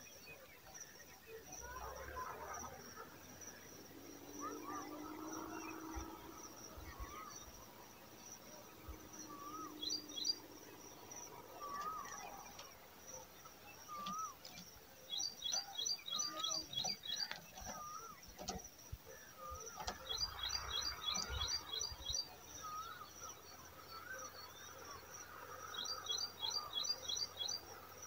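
Birds calling: three quick runs of high chirps, about seven notes each, come about halfway through, two-thirds through and near the end. Soft short wavy notes repeat every second or two in between, over a steady high insect-like drone.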